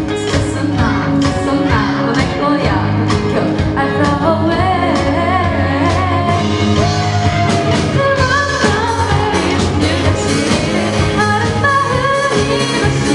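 Amateur band playing a pop-rock song live: a singer's melody over bass and regularly struck drums.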